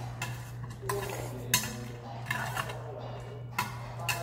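Utensils clinking and scraping against a bowl while cold buckwheat noodles are stirred and eaten, with a few sharp clinks, the loudest about a second and a half in.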